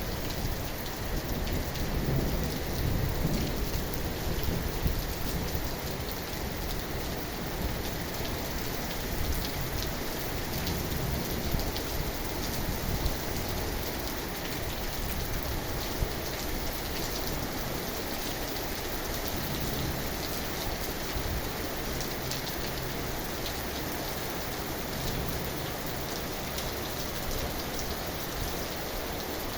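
Steady rain falling and pattering on a surface, with a low rumble about two to four seconds in.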